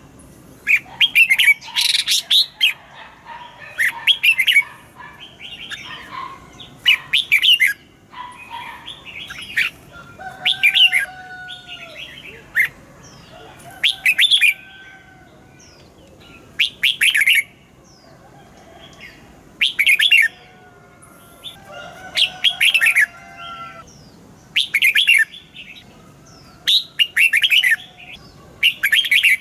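Red-whiskered bulbuls singing: short, bright chirping phrases repeated every two to three seconds, with softer, lower whistled notes between them.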